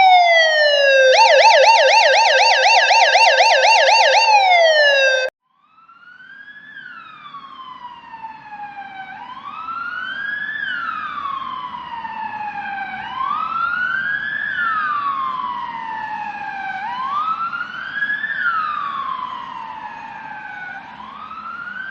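Emergency-vehicle siren: a falling wail that switches to a fast yelp for about four seconds, then cuts off abruptly. A second siren then fades in, wailing slowly up and down about every four seconds over a low rumble.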